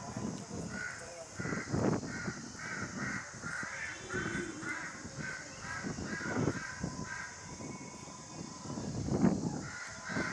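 A bird calling in a quick run of short, repeated calls, about three a second, breaking off after about seven seconds and starting again near the end. Low rumbles come and go underneath, loudest about two seconds in and again near nine seconds.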